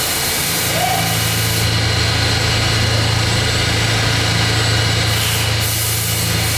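Steady low mechanical hum of running factory machinery, with a constant noisy whir over it.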